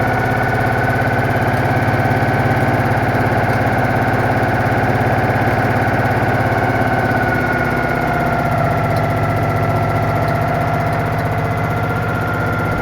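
Citroën Méhari's air-cooled flat-twin engine running steadily, with its cooling fan refitted and its exhaust line sealed airtight. Its pitch dips slightly about two-thirds of the way through.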